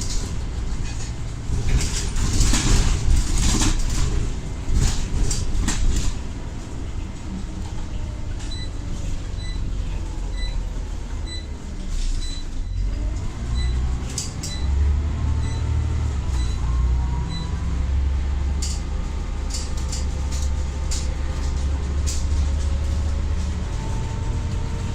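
Scania OmniCity bus running with its ZF automatic gearbox whining. The whine glides down as the bus slows about halfway through, then climbs again as it pulls away under a heavy low engine rumble. There is rattling early on, and a regular high tick about twice a second for several seconds in the middle.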